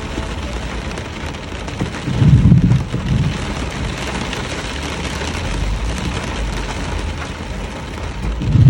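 Steady rain hissing, with two louder low rumbles, about two seconds in and again near the end.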